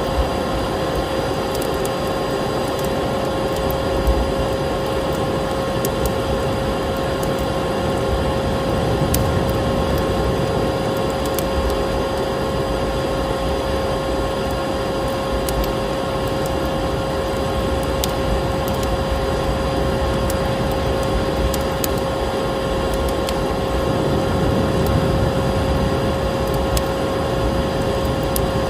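Vacuum cleaner running steadily with a constant hum, mixed with the crackle and scattered pops of a wood fire in a fireplace.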